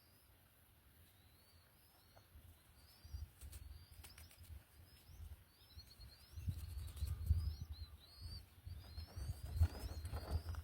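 A small bird chirping: a steady series of short, high, rising chirps, one or two a second. Low rumbling knocks come in from about three seconds in and grow stronger near the end.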